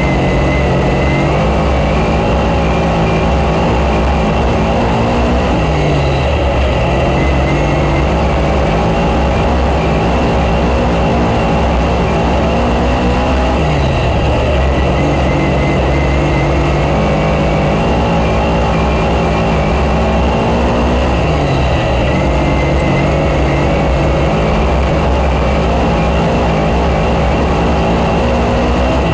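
Race car engine running hard around a dirt oval, its revs dropping and climbing back about every 7 to 8 seconds as the throttle is lifted for the turns and reapplied.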